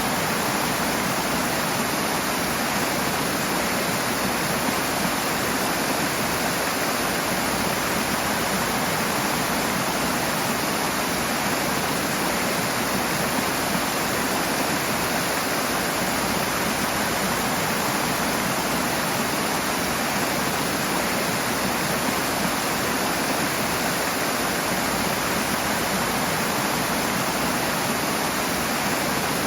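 Rushing water, a steady full-bodied rush of a fast stream or small waterfall, even and unbroken.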